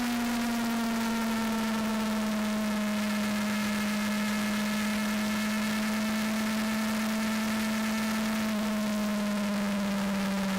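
Yamaha FZS600 Fazer's inline-four engine running at a steady cruise while the bike is ridden, its note slowly dropping, over a constant rush of air noise.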